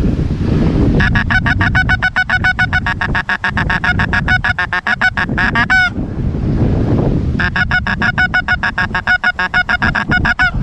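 Goose cackling in two long runs of quick, evenly spaced calls, one starting about a second in and another around seven seconds, over a steady low rumble of strong wind on the microphone.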